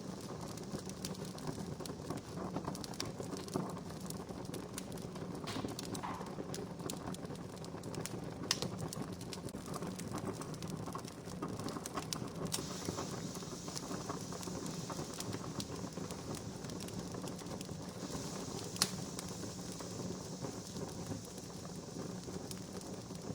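Wood campfire crackling steadily, with frequent small ticks and a few sharp pops, the loudest about three quarters of the way through.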